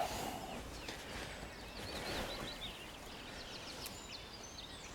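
Quiet woodland ambience: a soft steady rustling background with faint, short high-pitched bird chirps scattered through it.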